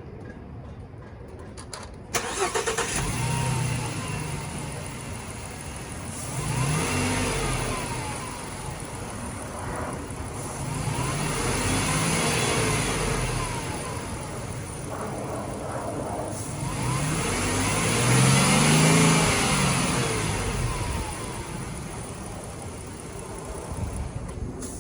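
2018 Ford T350 van engine cranking and starting about two seconds in, then idling, and revved three times, each rev rising and falling back to idle.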